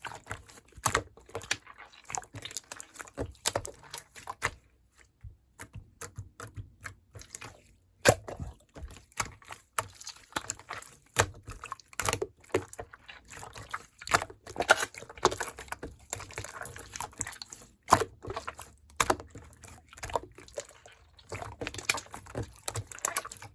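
Rapid, irregular small clicks and taps with some liquid sounds mixed in.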